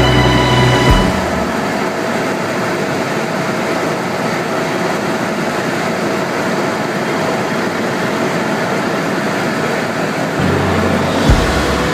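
Steady helicopter noise heard from inside the cabin, an even drone of rotor and engine, with a brief knock near the end.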